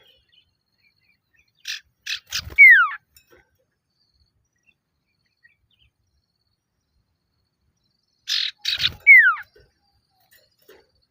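Male common iora (sirtu, cipoh) giving its challenge call to rivals, twice: each time a few short harsh notes and then a clear downward-sliding whistle.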